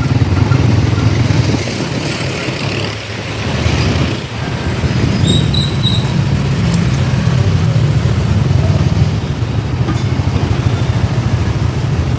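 Motorcycle engine running under way in traffic, with steady road and engine noise; the engine eases off briefly about three to four seconds in. A short high-pitched chirp sounds a little past five seconds in.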